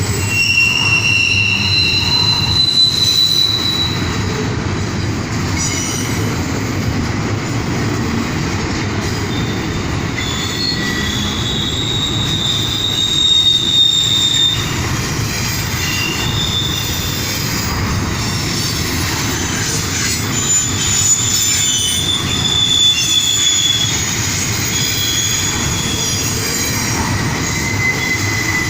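CSX intermodal freight train's cars rolling past, a steady rumble of steel wheels on rail with high-pitched wheel squeals coming and going throughout.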